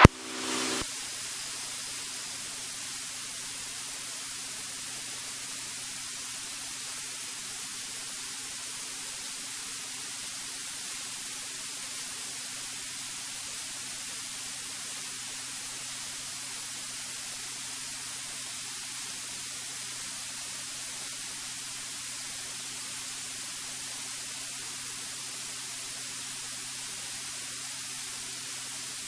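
Steady hiss of a cockpit intercom audio feed, with a faint steady low hum from the aircraft's engine underneath.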